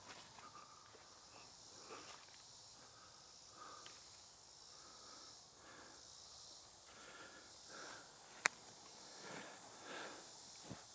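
Slow footsteps through the woods, soft and irregular, over a steady high-pitched drone of insects. A single sharp click about eight and a half seconds in is the loudest sound.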